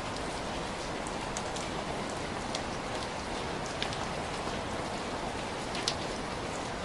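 Heavy rain falling steadily, an even hiss with scattered individual drops ticking on a surface, one a little louder shortly before the end.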